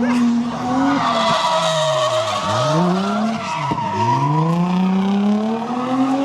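A car doing donuts: the engine revs up and down, its pitch dipping sharply twice near the middle, while the tyres squeal and skid.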